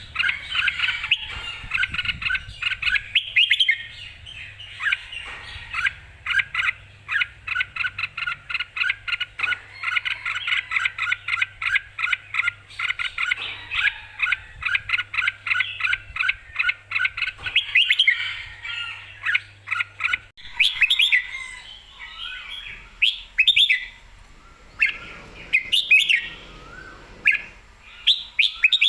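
Red-whiskered bulbul singing in full voice: a fast run of short, repeated chirping notes for about the first twenty seconds, then sparser, louder phrases.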